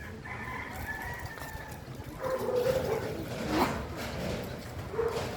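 A rooster crowing once, a long call lasting about a second and a half, followed by shorter, lower calls.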